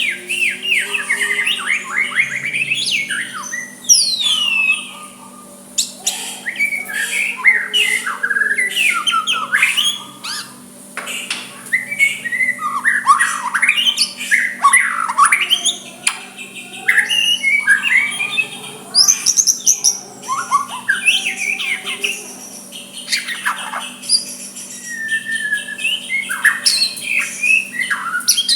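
White-rumped shama singing a fast, varied song of whistled glides, chattering and harsh squawky notes in phrases broken by short pauses, over a faint steady hum.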